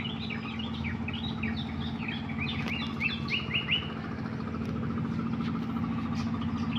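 Songbirds chirping in a quick run of short sweeping notes that fade out about four seconds in, over a steady low hum.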